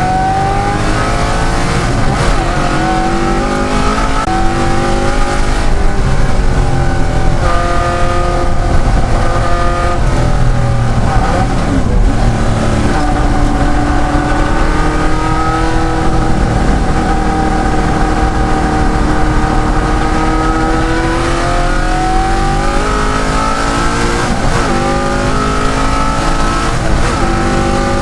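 De Tomaso Pantera's V8 racing at full throttle, the revs climbing and dropping again and again through gear changes and corners. A long steady stretch in the middle ends in a drop in revs about three quarters through, and the engine then pulls hard again.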